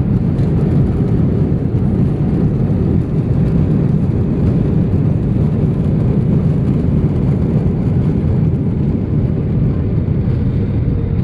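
Airbus A320's CFM56 engines in reverse thrust during the landing rollout, heard from the cabin as a loud, steady, deep rumble together with the wheels rolling on the runway.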